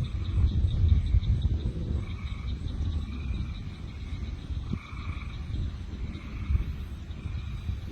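Frogs calling in the dark: short trilled calls repeating about once a second, with a faster, fainter pulsing chorus above them, over a steady low rumble.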